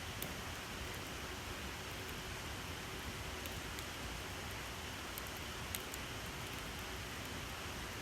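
Campfire burning: a steady hiss with a few faint, sharp crackles, one near the start and one about two-thirds of the way through.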